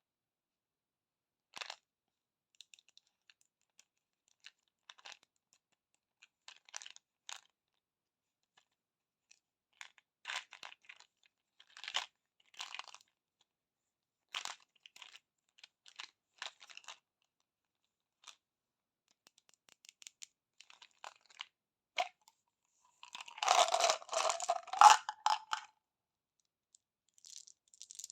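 Candy wrappers being crinkled and torn open: scattered short rustles and tears, with a louder stretch of crinkling and tearing near the end.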